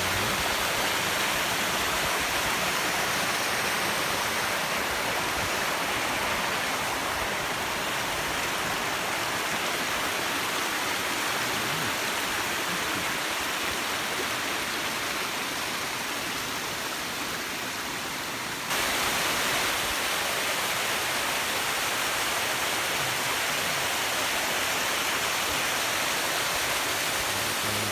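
A waterfall on a river, white water rushing in a continuous steady noise. About two-thirds of the way through, the sound jumps suddenly a little louder and brighter.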